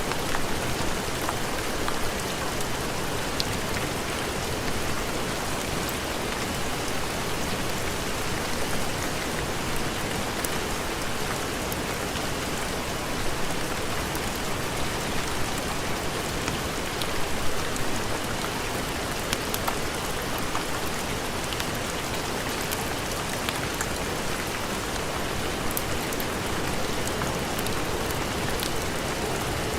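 Heavy rain falling steadily, with a few faint sharp ticks scattered through it.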